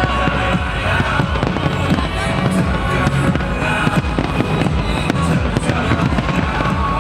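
Fireworks bursting in rapid, irregular bangs and crackles over loud music with a heavy bass.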